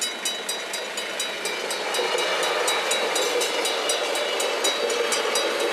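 Level crossing warning bells ringing in a fast even beat, about three to four strikes a second, as a regional passenger train passes over the crossing; the train's running noise swells about two seconds in and partly covers the bells.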